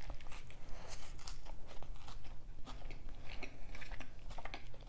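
A person biting into and chewing a Quarter Pounder with cheese: a dense string of small crunches and mouth clicks.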